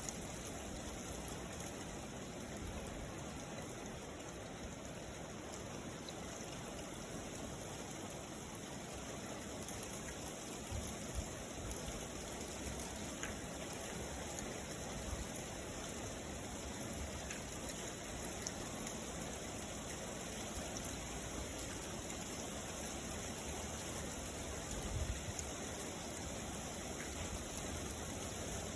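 Steady rainfall: an even hiss of rain with a few brief low bumps.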